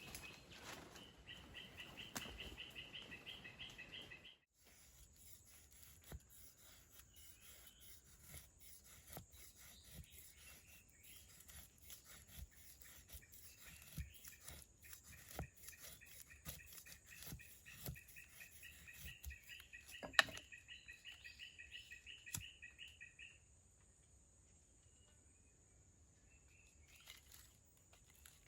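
Tropical forest ambience: a bird repeats a rapid pulsed call, about four or five notes a second, in two long runs, over a steady high insect buzz. Scattered light knocks and rustles come from someone working nearby, with one sharp knock about two-thirds of the way through.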